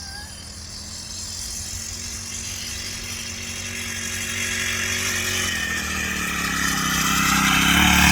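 Mini bike engine running at a steady speed, growing steadily louder as the bike rides toward the listener.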